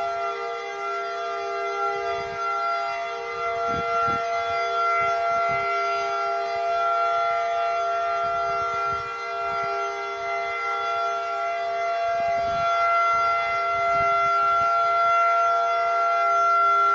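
Outdoor tornado warning siren sounding a steady, unbroken tone made of several pitches held together, signalling a tornado warning.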